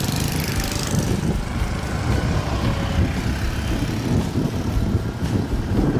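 A vehicle engine running steadily under a heavy, uneven low rumble.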